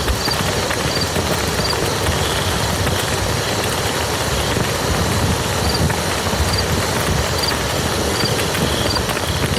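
Steady rain falling on a muddy field, an even hiss with a deep low rumble under it. A faint, high chirp repeats at even intervals through part of it.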